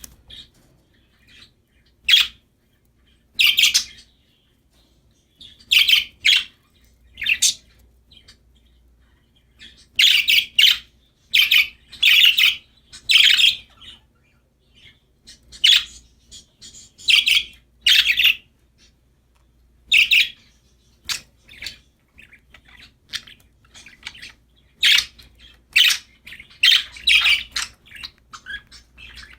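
Budgerigars chirping and chattering in short, irregular bursts of high, scratchy calls with brief pauses between.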